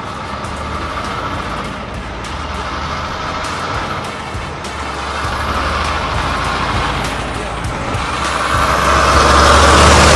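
Semi truck running with a steady low engine hum, and a hiss that swells to its loudest near the end.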